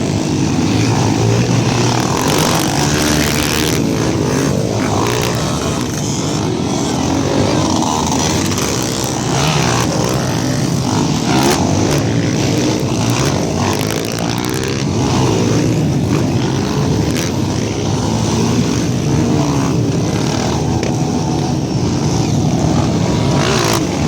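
Many off-road trail motorcycle engines running and revving together, their overlapping engine notes rising and falling.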